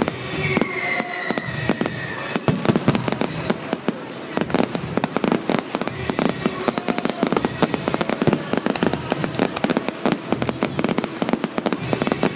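Fireworks going off in a dense, continuous barrage of bangs and crackles, many each second. A high whistle falls slightly in pitch over the first two seconds.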